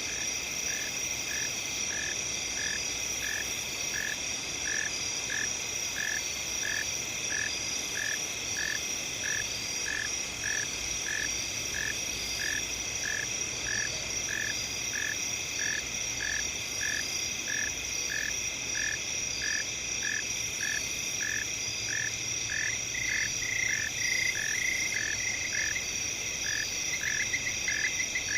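Night field chorus of insects: a steady high-pitched trill of crickets, with a lower chirp that pulses about twice a second.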